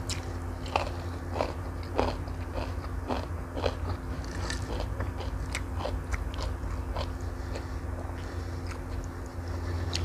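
Close-miked chewing of fried instant noodles and fried egg eaten by hand: a run of irregular short mouth clicks and bites, over a steady low hum.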